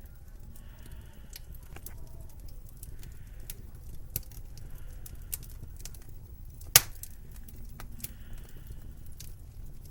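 Wood fire crackling: irregular sharp pops and ticks over a low steady rumble, with one much louder pop about two-thirds of the way through.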